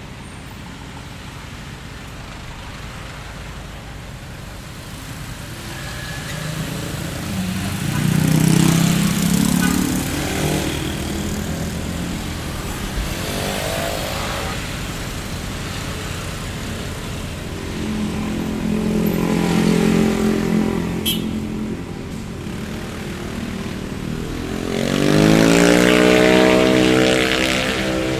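Street traffic ambience: a steady road rumble with several motor vehicles driving past one after another, three of them louder. The last one's engine note rises as it accelerates near the end.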